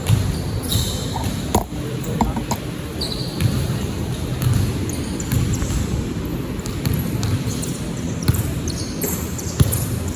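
Basketball game in a gym: the ball bouncing on the court, with short high squeaks and a few sharp knocks over a steady hubbub.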